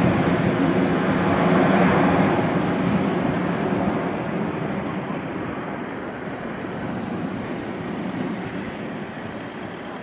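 Airbus A380 jet engines after takeoff: a broad, steady rumble that fades gradually as the airliner climbs away.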